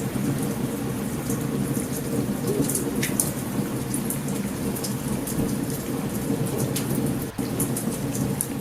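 Steady heavy rain with a low rumble of thunder, over which a campfire pops and crackles in short sharp snaps.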